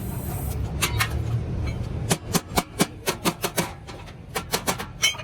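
Hammer blows on metal: two light taps about a second in, then a quick run of strikes about four a second from about two seconds in, with a short pause near four seconds. A low steady rumble underneath drops away as the hammering starts.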